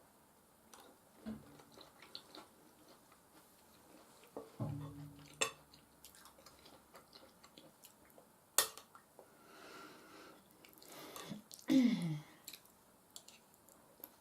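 Close-up eating sounds of soft mashed potatoes and tender beef stew: wet chewing and squishing, with cutlery clinking on the dish. There is a sharp clink about eight and a half seconds in, and brief low pitched sounds from the eater near five seconds and again near twelve seconds, the second one falling in pitch.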